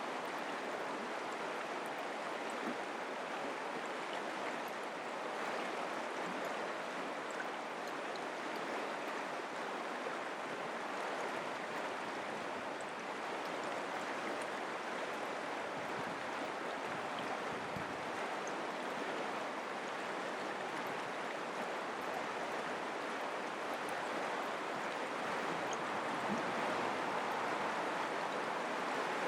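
Mountain creek running: a steady rush of flowing water.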